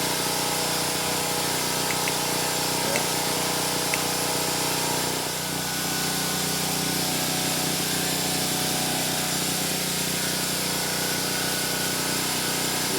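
Steady machine hum at a constant pitch, like a small motor or engine running without change, with a few faint clicks in the first few seconds.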